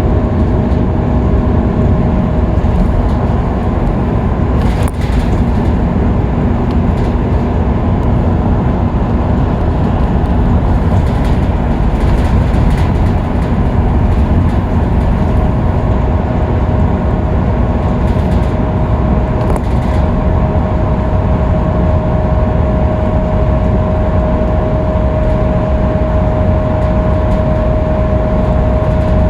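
Scania K310UB city bus running at freeway speed, heard on board: a steady, loud drivetrain and road rumble with a steady whine that grows stronger in the second half.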